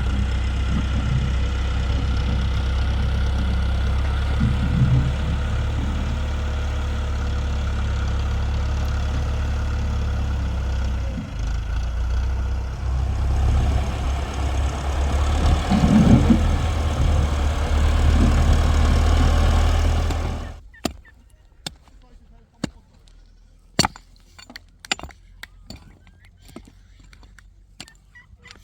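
Tractor engine running steadily, then cutting off abruptly about twenty seconds in, followed by scattered clicks and knocks.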